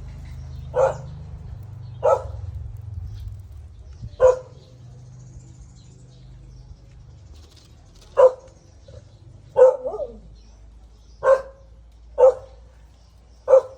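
A dog barking: eight single barks, spaced a second or more apart, with a longer pause in the middle.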